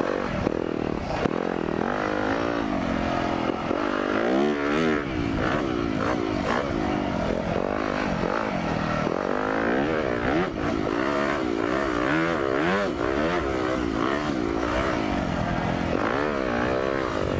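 Four-stroke single-cylinder motocross bike engine revving up and down again and again as the throttle is opened and closed through corners, heard close up from an onboard camera mic.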